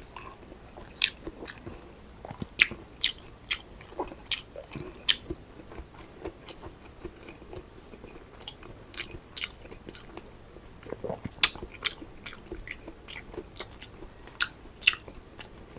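A person eating close to the microphone: wet chewing and biting, with many sharp, irregular mouth clicks, a few each second.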